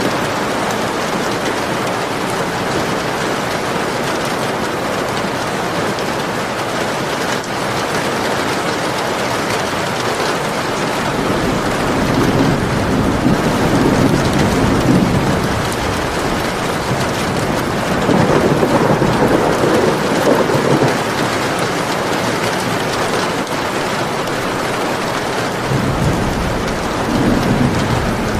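Steady rain falling, with three low rolls of thunder: one a little before halfway, one just past halfway, and one near the end.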